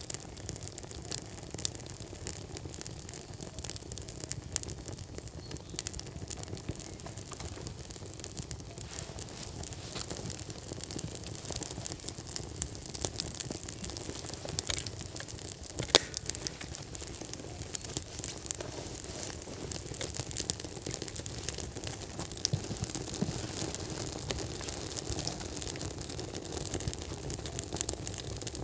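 Kindling and firewood crackling in a freshly lit outdoor fire pit: dense, irregular small crackles over a low, steady rush, with one sharper pop about 16 seconds in.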